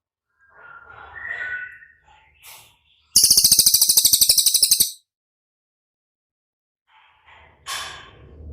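Songbird singing: a few short phrases, then a loud, high, rapid trill of evenly repeated notes lasting under two seconds, and more short phrases near the end.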